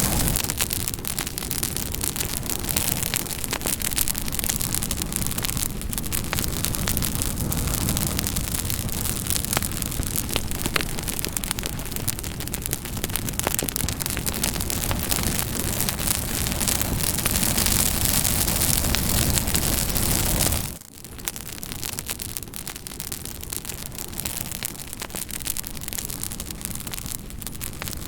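Campfire burning with a steady hiss and frequent small crackles and pops. About 21 s in, it briefly drops away and comes back somewhat quieter.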